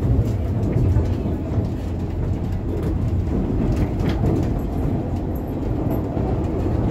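Running noise heard inside a diesel railcar: a steady low rumble of the engine and the wheels on the rails, with a few faint clicks.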